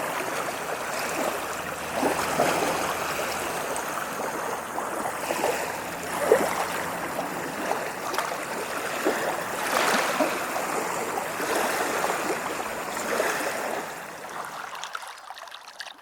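Small ocean waves lapping and washing on a shore, a steady rushing swell that rises and falls every few seconds with little splashes. The sound fades out over the last two seconds.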